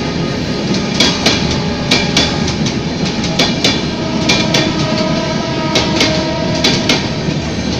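Intercity passenger train coaches rolling past, with a steady rumble and the wheels clacking over rail joints in pairs about once a second.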